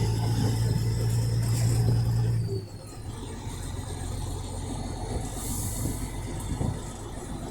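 Semi truck's engine running with a steady low hum heard from inside the cab, which drops away suddenly about two and a half seconds in, leaving a quieter road rumble.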